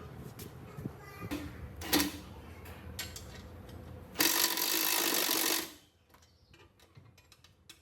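Mechanical workshop sounds: a low hum with scattered clicks and knocks, then a loud hissing noise lasting about a second and a half, followed by quieter light tapping.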